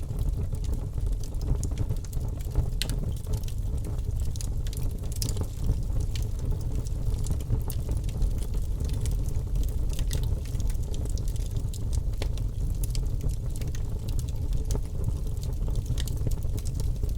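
Birch logs burning in a fireplace: a steady low rumble of flame with sharp crackles and pops at irregular intervals.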